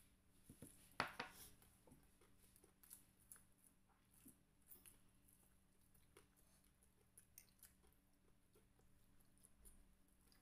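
Faint close-up eating sounds: fried chicken being chewed, with scattered small clicks and crunches and one louder crunch about a second in.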